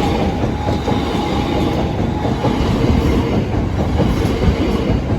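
A train passing close by: a loud, steady rumble of wheels on the rails, with scattered light knocks.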